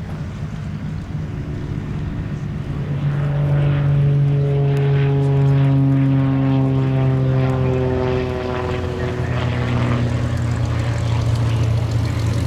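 Propeller airplane flying past: its engine and propeller drone grows louder about three seconds in, then falls in pitch as it goes by.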